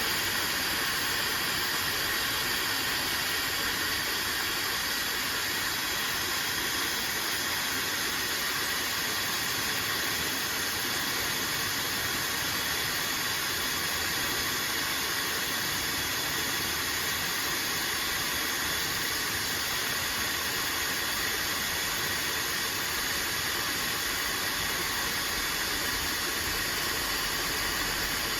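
Fentgo high-speed brushless hair dryer running steadily, a constant rush of blowing air.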